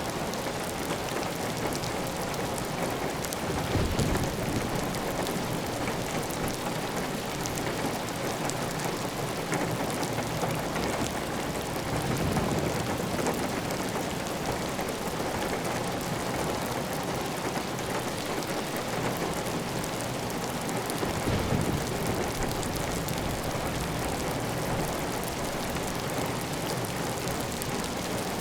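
Heavy rain falling steadily on a clay tile roof, with water running off the roof edge. Three brief low swells a few seconds apart, about eight seconds between each, rise above the steady patter.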